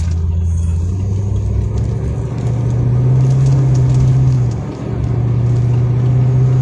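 Car engine and road noise heard from inside the cabin while driving. The engine note climbs in pitch over the first few seconds, dips briefly in loudness about two-thirds of the way through, then holds steady.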